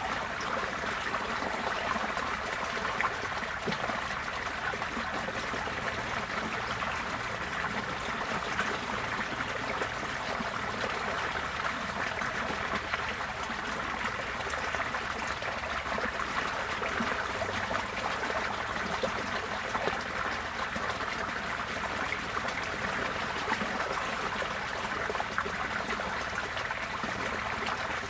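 Receding floodwater flowing steadily, an even, unbroken stream-like sound.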